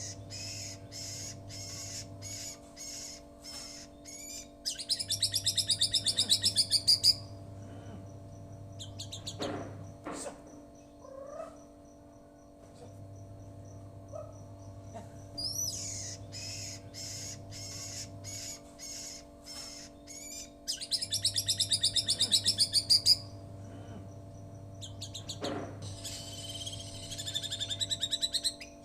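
White-rumped shama singing: varied song phrases with two long, loud bursts of rapid repeated notes. A steady low hum runs underneath.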